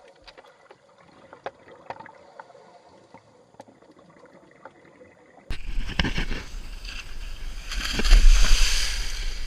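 Water sloshing and lapping faintly with small scattered knocks. About five and a half seconds in there is an abrupt cut to a much louder rush of water and wind noise, which swells near the end.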